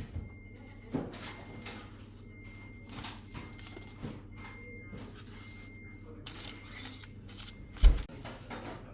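Kitchen work sounds: scattered light knocks and scrapes over a steady low hum, with one loud thud about eight seconds in.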